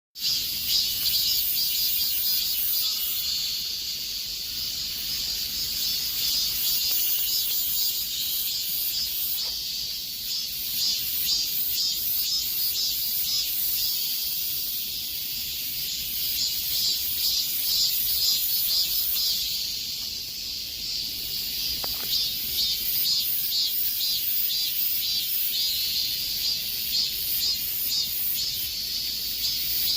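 Cicadas buzzing in a dense, high-pitched chorus that pulses rapidly and swells and eases every few seconds.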